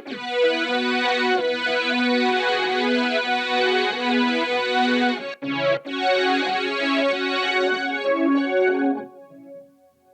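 Guitar played through a Boss SY-1 synthesizer pedal on a strings patch: a line of sustained synth notes, with a brief break a little past halfway and the notes dying away near the end.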